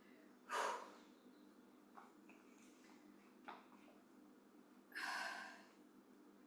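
A woman breathing hard through a set of bicep curls with hand weights: a short breath about half a second in and a longer breath about five seconds in, with a couple of faint clicks between.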